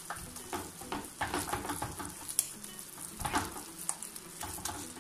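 Chicken masala sizzling in a frying pan while a spatula stirs it, scraping against the pan in quick repeated strokes.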